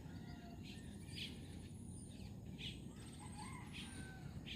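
Faint birdsong: scattered short chirps and whistles over a steady low background rumble.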